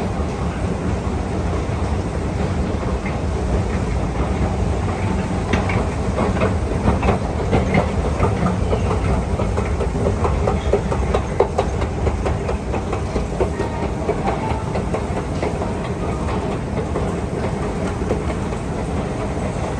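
KONE escalator running: a steady low mechanical hum with a dense clicking and rattling of the moving steps, busiest around the middle.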